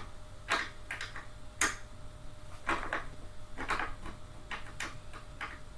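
Bolt on a gaming chair being tightened by hand with a tool: a string of irregular short clicks and scrapes, a little under two a second, as the fitting is snugged up to take out a wobble.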